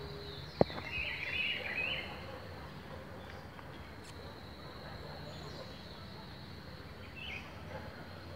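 Birds chirping in the trees. A sharp click comes first, then a burst of twittering about a second in and a short call near the end, over a faint steady high tone.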